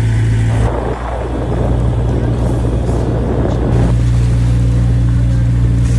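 Boat engine running at a steady, even hum. For about three seconds in the middle, a rushing noise of water or wind rises over it and then falls away.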